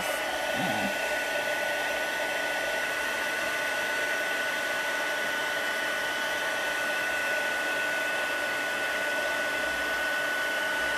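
Handheld heat embossing tool blowing steadily, a fan-driven rush with a constant high whine, melting silver embossing powder on paper leaves.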